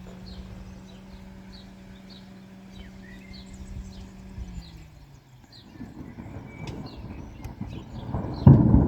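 Thunder rolling in, a low rumble that builds from about halfway and breaks into a loud crack near the end. Birds chirp over it, and a steady hum is heard through the first half before it fades out.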